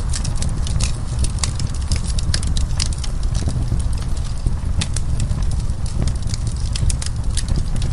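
Wood fire crackling, with many sharp irregular pops and snaps over a steady low rumble of the burning flames.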